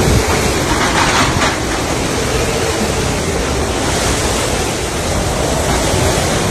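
Loud, steady rushing noise of typhoon wind, with gusts buffeting the microphone.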